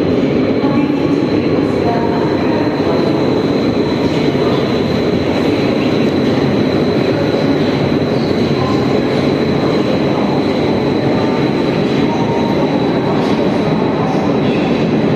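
Minsk metro train running, heard from inside the car: a steady rumble of wheels and motors on the track with a thin, steady high whine.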